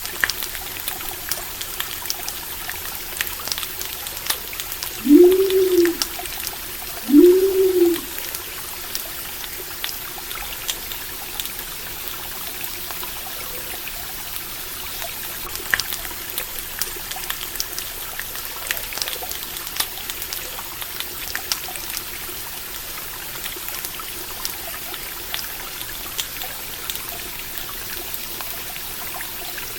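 Steady flowing stream water with scattered small crackles from a campfire. About five seconds in come two low calls about two seconds apart, each rising and then falling in pitch.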